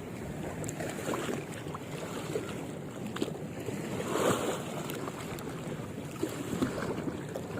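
Water lapping and sloshing with wind buffeting the microphone, and one brief louder surge of water noise about four seconds in.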